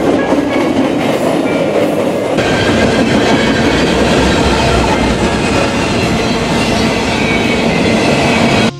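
Freight train rolling past close by: a loud, steady rumble and clatter of steel wheels on the rails, with diesel locomotives going by at first. The sound changes abruptly about two seconds in and cuts off sharply near the end.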